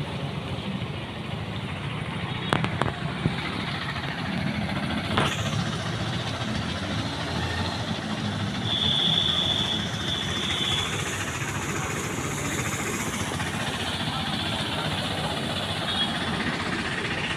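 Steady rushing noise of a flooded street, with water flowing and traffic, broken by a couple of sharp clicks and a brief high whine about halfway through.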